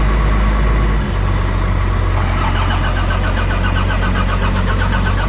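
Truck engine idling. Its note shifts about a second in and then holds steady, with a rhythmic clatter that joins from about two seconds in.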